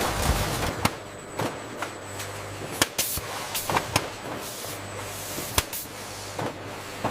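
A series of irregular sharp clicks and knocks over a low steady hum.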